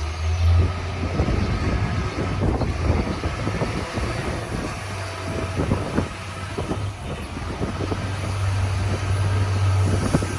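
Strong wind buffeting the microphone, with irregular rustling and patter throughout. A low steady hum sounds at the start and again from about eight seconds in.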